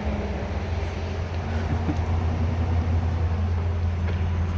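A vehicle engine running steadily at a constant low pitch, with no revving.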